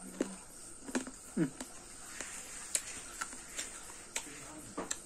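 Close-miked chewing of small round green fruits with the mouth closed: scattered wet clicks, crunches and mouth smacks, a few every second.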